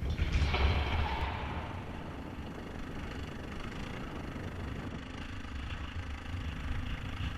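Suzuki DR650 single-cylinder engine running steadily at low revs, with wind noise on the microphone that is louder for about the first second.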